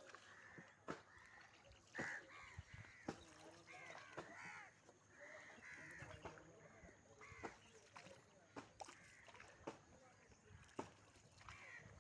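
Faint cawing of crows, many short arched calls repeating irregularly, with a few scattered sharp clicks.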